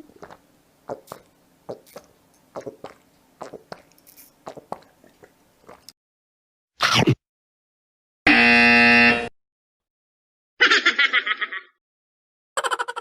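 A string of separate short stock sound effects. Soft, irregular clicks and taps run for about six seconds, followed by a brief burst near seven seconds. About eight seconds in comes a one-second air horn blast, then a fast fluttering sound and, near the end, a quick run of pulses.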